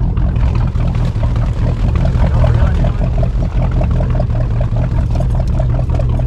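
Motorboat engine running steadily, heard from aboard: a constant low drone with a quick, even pulsing about five times a second.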